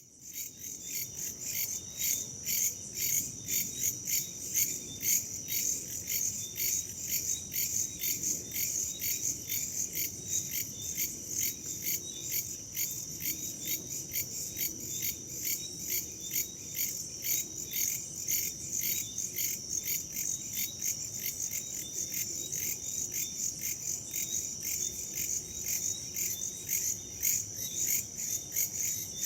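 Crickets chirping in a dense chorus, a steady high-pitched trill that pulses in quick, even beats.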